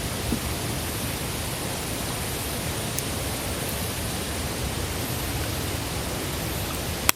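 Wood campfire burning with a steady hiss and low rumble, and a few sharp crackles and pops; the loudest snap comes near the end.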